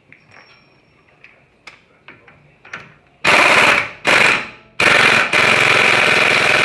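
Air impact wrench hammering in three bursts, the last about three seconds long, running a wheel-hub fastener down close to spec before it is finished with a torque wrench. A few light tool clicks come before it.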